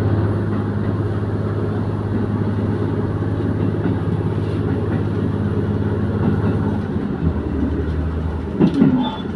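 Diesel railcar running along the line: a steady low engine drone over the rumble of wheels on rails. About seven seconds in, the engine note drops lower.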